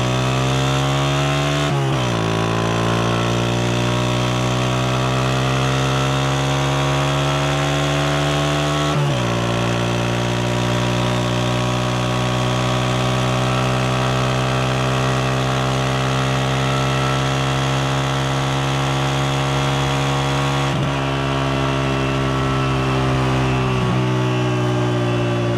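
Honda CG125's single-cylinder four-stroke engine pulling a moving motorcycle. Its pitch climbs and then drops suddenly at two upshifts, about two seconds in and again about nine seconds in, before it holds a steady cruise and eases off slightly near the end.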